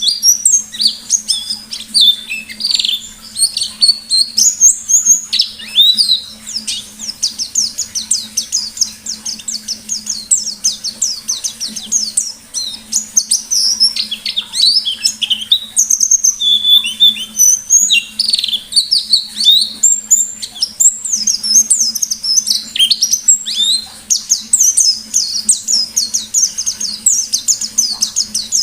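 White-eye (pleci) singing without pause in fast, high-pitched runs of chirps and trills, the rapid wild 'ngalas' style. A faint steady low hum runs underneath.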